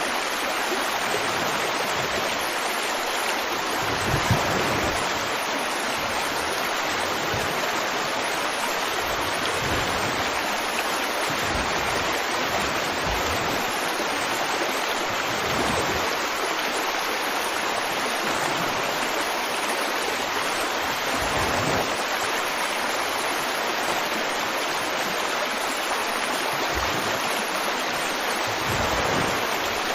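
River water flowing steadily, an even rushing of running water with occasional brief low surges.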